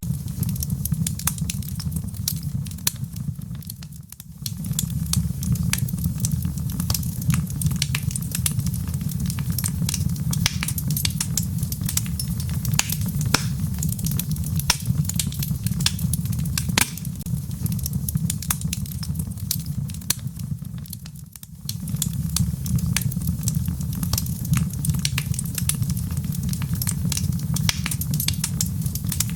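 Wood fire crackling with many sharp pops over a steady low rush of rain heard from indoors. The whole sound dips briefly twice, about four seconds in and again a little past twenty seconds.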